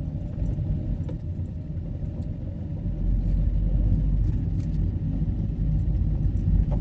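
Fiat Doblo campervan driving, its engine and road rumble steady and low. The rumble grows louder about three seconds in.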